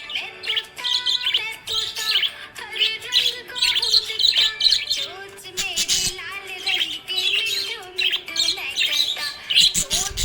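Budgerigars chirping and warbling in quick, busy bursts throughout. Background music with held melody notes plays underneath.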